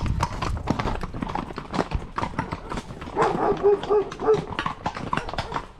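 Horses' hooves clip-clopping at a walk in a steady, uneven patter of strikes. A brief voice or call sounds about three seconds in.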